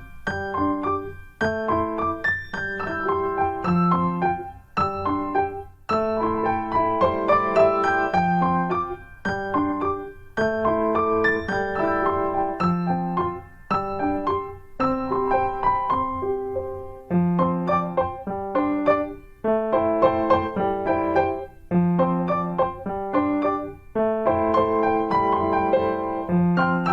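Background piano music: a gentle melody in short phrases with brief pauses between them.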